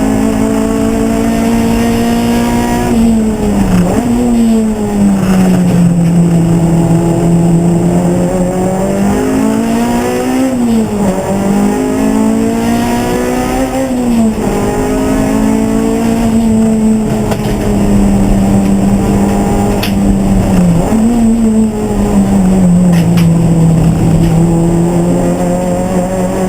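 Race car engine running continuously and loudly. Its note holds steady for long stretches, then drops and climbs again several times, about 3, 11, 14 and 21 seconds in, as the car shifts gear and slows for corners.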